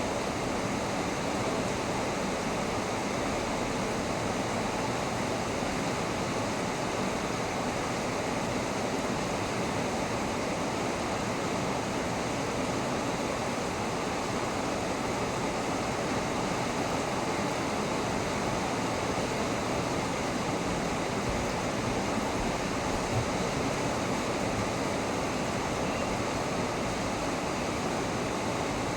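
Heavy rain falling steadily in a thunderstorm, an even rushing hiss.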